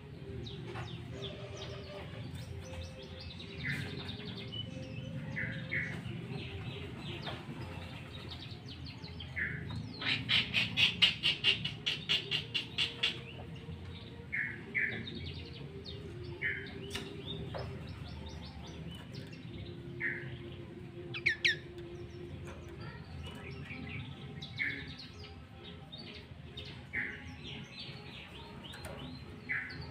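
Sooty-headed bulbul (kutilang) calling: short bright chirps repeated every second or two, with a fast loud run of about a dozen notes about ten seconds in and a sharp double note a little past twenty seconds. A steady low rumble runs underneath.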